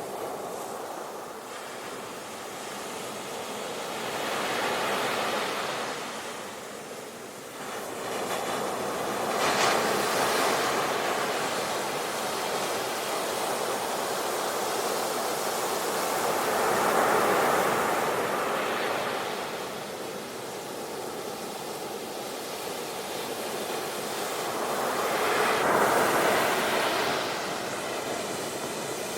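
Ocean waves breaking on a shore: the surf swells and falls back in about four slow surges.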